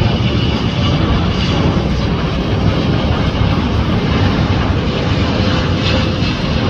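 Jet engines of an EVA Air Boeing 777-300 airliner arriving, a steady loud rumble with a faint engine whine.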